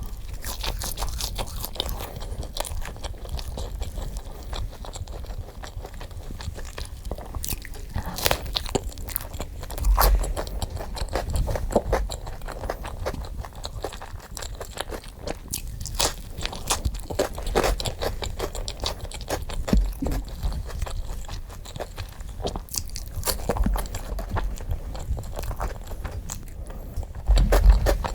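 Close-miked biting and chewing of crunchy food, a dense run of crisp crunches with a few louder bites along the way, played sped up.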